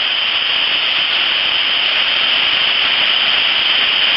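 Steady, loud rush of whitewater river noise, an even hiss with no breaks.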